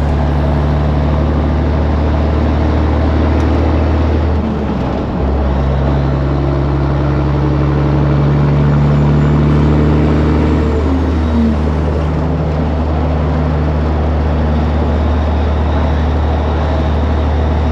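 Semi truck's diesel engine running steadily under load, heard from the cab. The engine note breaks and drops about four and a half seconds in and slides lower again a little past the middle, as with gear changes.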